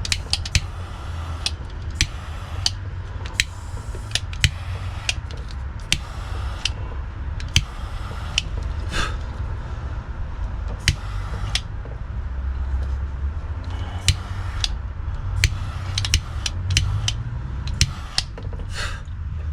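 Irregular small clicks and taps from hands working tools and wiring parts, over a steady low rumble.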